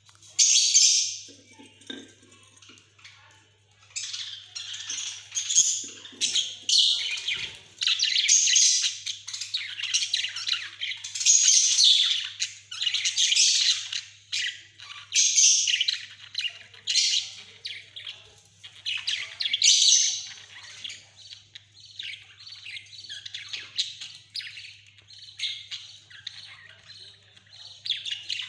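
Pet budgerigars chattering and chirping, with loud squawks now and then; the calls are sparse at first and pick up into busy, overlapping warbling about four seconds in. A faint steady electrical hum lies beneath.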